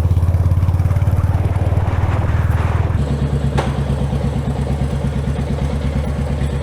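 A vehicle engine running with an even, fast pulsing note whose pitch shifts about three seconds in.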